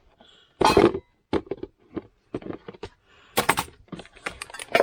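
Supplies being rummaged through by hand: a string of short crackles, knocks and clinks, with two louder crinkling bursts about half a second in and near the middle, as packets of sweets are checked for mouse damage.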